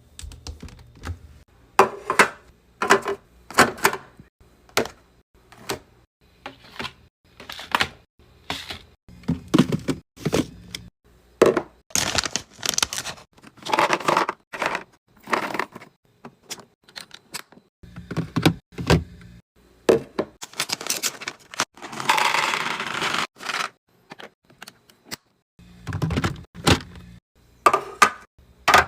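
Food containers and packaging being handled and set down while a fridge is restocked: an irregular run of knocks, clinks and taps, with a longer noisy stretch of a couple of seconds about two-thirds of the way in.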